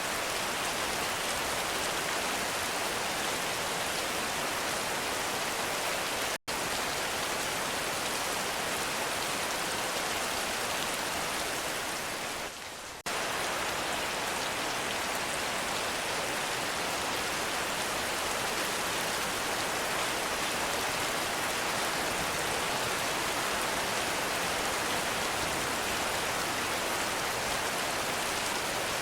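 Heavy rain pouring steadily, a dense, even wash of sound. It cuts out for an instant about six seconds in and dips briefly about twelve seconds in.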